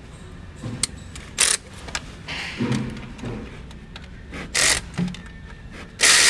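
Hand-tool and parts-handling noise on a truck engine: scattered clicks and knocks with a few short hissing bursts, the longest near the end.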